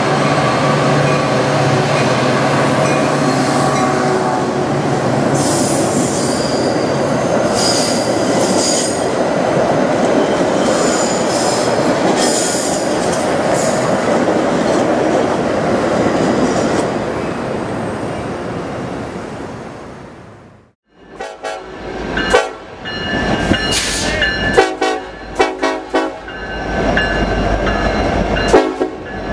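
A Metra commuter train passes: the diesel locomotive's engine runs, then the coaches roll by with high wheel squeal and fade away. After a sudden cut about 21 seconds in, a different diesel locomotive's horn sounds in several blasts over the rumble of its passing.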